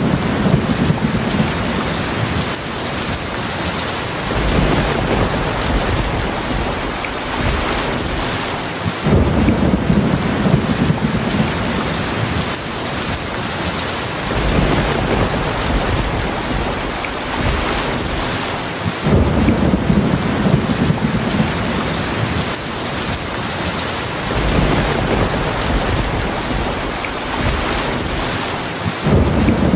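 Heavy rain falling steadily with low thunder rumbling, the rumbles swelling and easing about every ten seconds.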